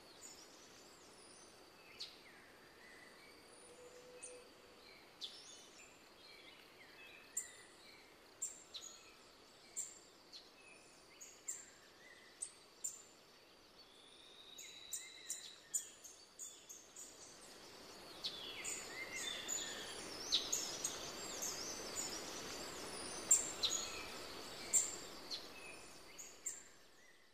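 Birds calling and chirping: many short, high notes, some sliding downward, over a faint steady hiss that grows louder about two-thirds of the way through.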